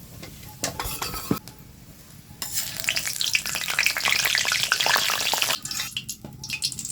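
Hot oil in a kadai sizzling loudly for about three seconds, starting about two and a half seconds in, with a few clicks of a metal spatula before and after.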